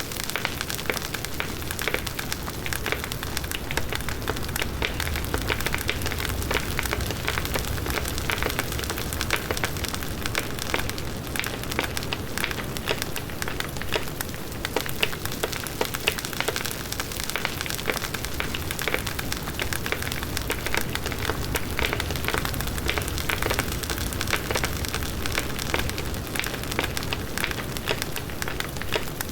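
Large wood bonfire burning: dense, steady crackling and popping of burning wood over the low rush of the flames.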